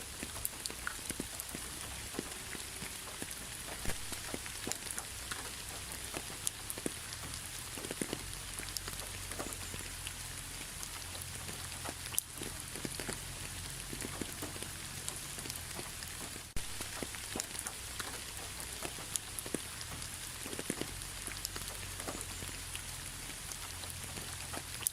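Steady rain falling, a constant hiss with many individual drops ticking sharply on a surface, and a brief dip in level about two-thirds of the way through.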